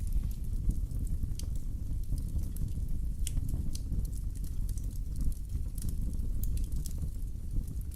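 Wood fire burning in a fireplace: a steady low rumble of flame with scattered sharp crackles and pops at irregular intervals.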